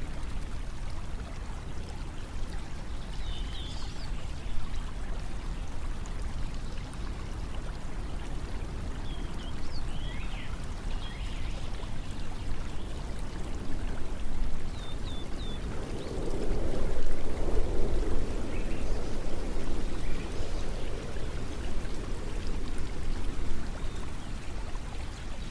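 Steady rushing of flowing water, swelling louder for a few seconds past the middle, with a few short high chirps.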